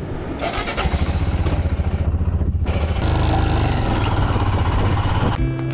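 Royal Enfield Himalayan's single-cylinder motorcycle engine running on the move, with a fast, even pulsing. It dips briefly about two seconds in, then pulls steadily again.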